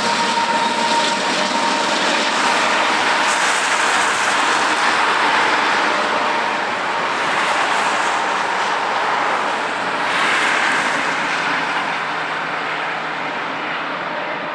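Freight train of loaded tank cars rolling past with steady wheel-on-rail noise, then the rear-end distributed-power locomotive, a CP AC4400CW diesel-electric working to push the train, passes with its engine running and gets quieter as it draws away near the end.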